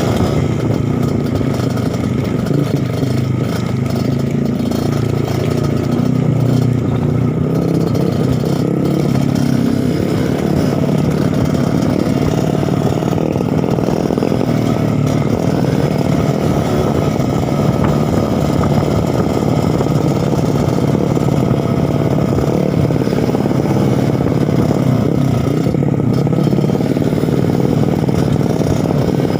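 Trail motorcycle engine running continuously as it is ridden, its revs rising and falling in the first ten seconds or so, then holding steadier.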